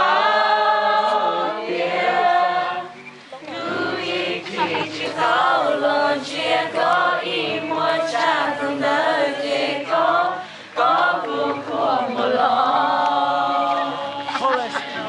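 A group of voices singing together unaccompanied, with brief breaks about three seconds in and again near ten seconds.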